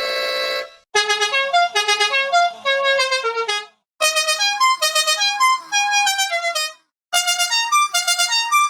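Ice cream truck jingle: a quick chiming melody played three times with short pauses between, each repeat pitched a little higher. A held tone fades out in the first second.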